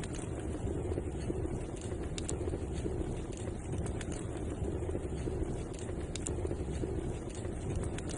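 Wood fire burning in a fireplace: a steady low roar with a few sharp crackles and pops scattered through it.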